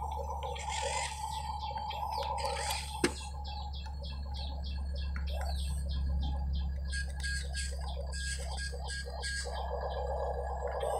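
Birds chirping in rapid repeated notes over a steady low hum, with one sharp click about three seconds in.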